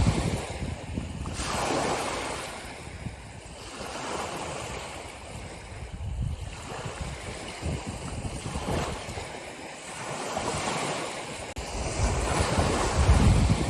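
Ocean waves washing in and drawing back in a steady rush that swells and fades every few seconds. The heaviest waves break right at the start and again about thirteen seconds in, with a deep low rumble.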